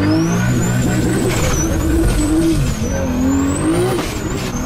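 A car engine revving up and down repeatedly, with a high whine rising and falling along with the revs.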